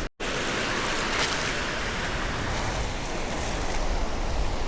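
Steady wash of surf on the beach, with wind rumbling on the microphone, after a momentary gap at the very start.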